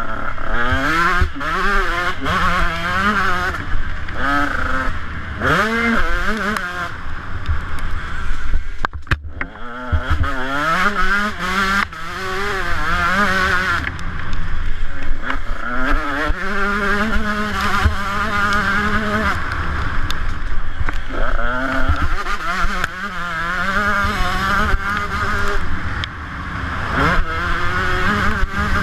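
Motocross bike engine revving up and down over and over as it is ridden, its pitch climbing and dropping with each burst of throttle. The engine drops away briefly about nine seconds in.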